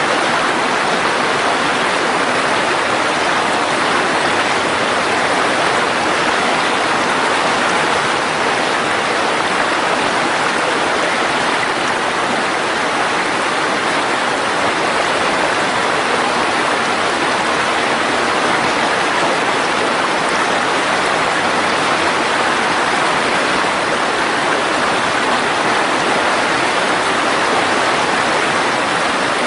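Mountain stream rushing steadily over rocks: loud, even water noise with no breaks.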